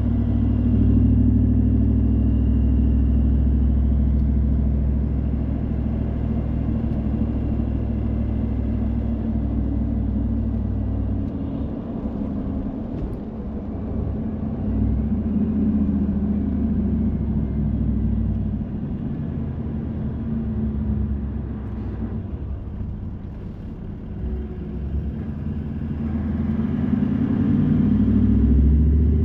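Car driving on the road, heard from inside the cabin: a steady low rumble of engine and tyre noise that eases about eleven seconds in and builds again near the end.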